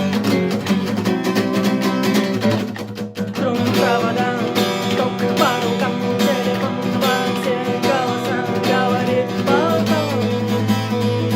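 Acoustic guitar strummed in a steady rhythm, with a brief drop in level about three seconds in before the strumming picks up again. From about four seconds in, a voice sings over it.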